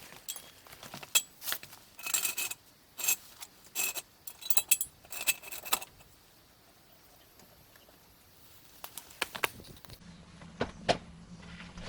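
Metal tools and parts clinking and jangling in a quick irregular series, as work is done on the clutch release fork while greasing its pivot. After a short pause come a few more clicks, then a steady low hum near the end.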